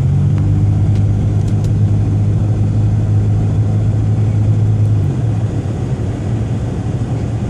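Motor vehicle engine running with a steady low hum over a broad rushing noise; the hum changes and drops in level about five seconds in.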